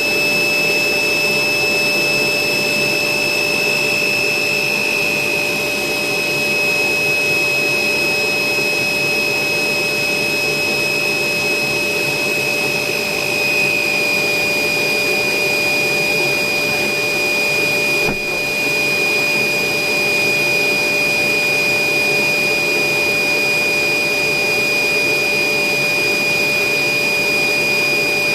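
Electric air blower running steadily, inflating a giant balloon, with a constant high-pitched whine over the rush of air; the whine dips slightly in pitch about halfway through.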